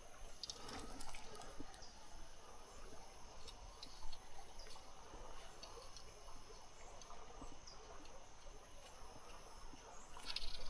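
Quiet summer streamside ambience: a steady high-pitched chorus of insects such as crickets, over a faint trickle of low water, with scattered small clicks.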